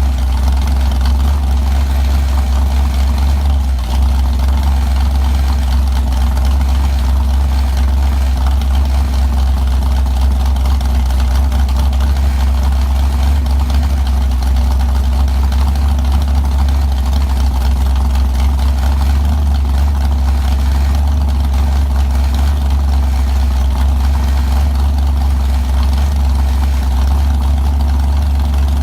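Rebuilt Chrysler 440 V8 from a 1970 Six Pack car, running on an engine stand at a steady idle, its new cam already broken in.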